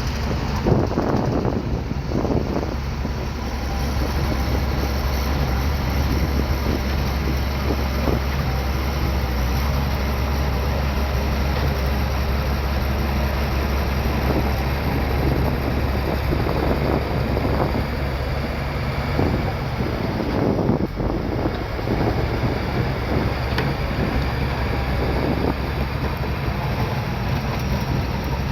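Bulldozer's diesel engine running steadily with a low drone, with irregular clanks and scraping from the machine at work.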